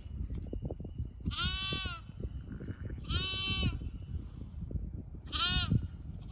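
Young St. Croix lamb bleating three times, high-pitched, each call about half a second long, while it is held for ear tagging. A low rustling and handling noise runs underneath.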